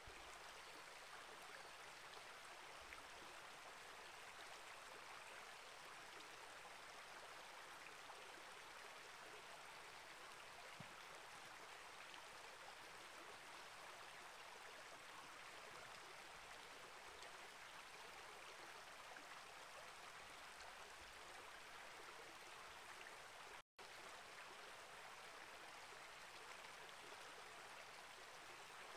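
Small rainforest creek flowing, a faint, steady rush of running water with no change. A split-second dropout to silence about three-quarters of the way through.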